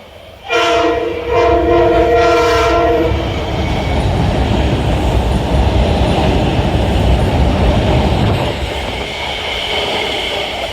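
Metro-North train horn sounding a short blast and then a longer one, followed by the train running through with a steady loud rumble of wheels on rail. A thin high squeal comes in near the end.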